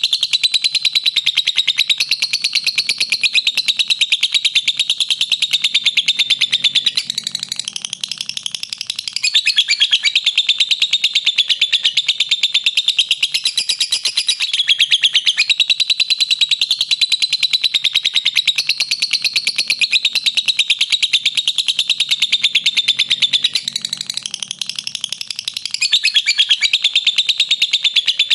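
Lovebird ngekek: a long, unbroken run of very fast, shrill chattering notes, with the chatter turning softer and rougher twice, briefly.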